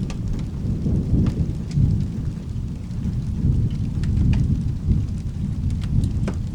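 Rolling thunder rumbling low and long over steady rain, with scattered sharp ticks on top.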